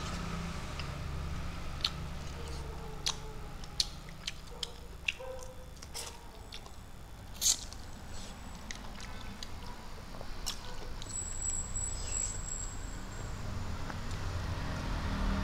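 Close eating sounds of a man chewing fried fish and rice taken by hand: scattered wet smacks and clicks of lips and mouth, over a low steady hum.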